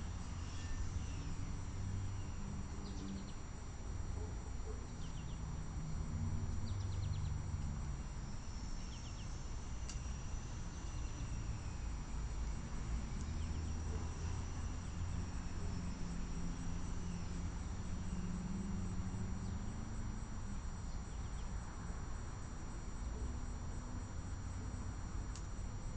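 Outdoor ambience dominated by a steady, high-pitched insect trill, with a few brief bird chirps scattered through it over a low background rumble.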